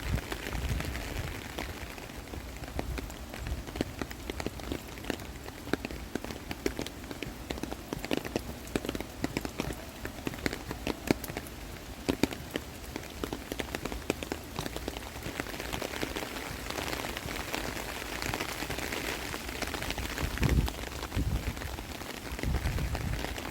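Rain falling, with many separate drops hitting close by as sharp little ticks over a steady hiss of rain. A few low bumps come in near the end.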